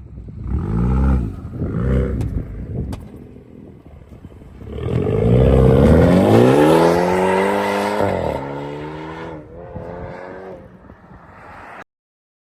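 BMW 420i's four-cylinder engine revving through a straight-piped exhaust, with the mufflers and resonator removed. There are two short blips, then a longer rev that climbs and falls back, which is the loudest part, and one more small blip. The sound cuts off abruptly near the end.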